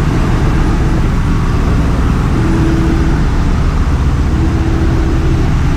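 Loud, steady drone of a ship's engine room, diesel machinery running continuously with a heavy low hum.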